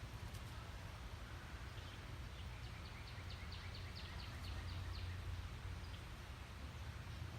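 A bird calling a rapid series of short, high, down-slurred notes, about four or five a second, for a couple of seconds midway. Under it runs a steady low rumble.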